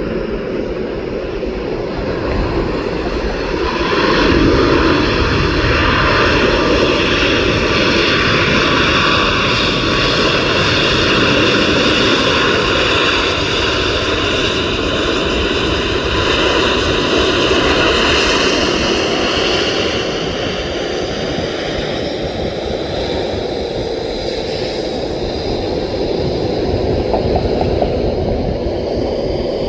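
Boeing 737 jet engines passing close by: a loud rush of jet noise with a high whine of several tones that slide slowly downward in pitch. It swells about four seconds in and eases after about twenty seconds.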